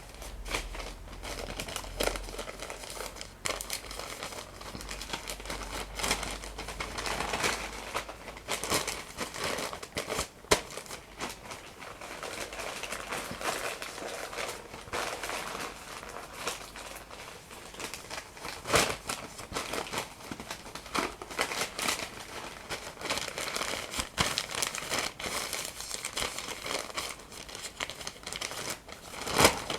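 Paper being crumpled and handled close to the microphone: a continuous stream of crinkles and crackles, with a few sharper, louder snaps.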